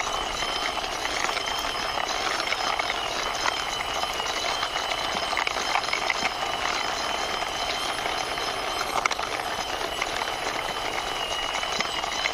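Toy racing car pushed by hand along a wall, its small plastic wheels rolling with scattered light clicks and rattles, over a steady high-pitched whine in the background.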